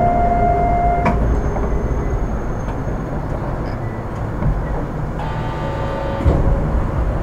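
Running sound heard inside an Astram Line 6000 series rubber-tyred automated guideway train, with a steady rumble from the car moving along the guideway. A steady tone stops with a click about a second in, and a brief cluster of tones sounds a little after halfway.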